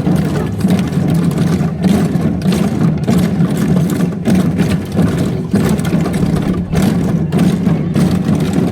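Many janggu, Korean hourglass drums, beaten together by a large group in a dense, continuous rhythm with frequent sharp strikes.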